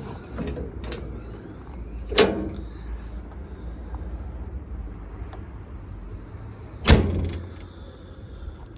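A metal door on a wrecker truck shut twice, about two seconds in and again near seven seconds, each a sharp knock with a short ring, over a steady low rumble.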